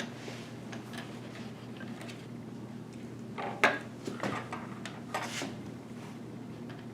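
Clicks and clatter of small hard computer parts and tools being handled, loudest about three and a half seconds in, over a steady low hum.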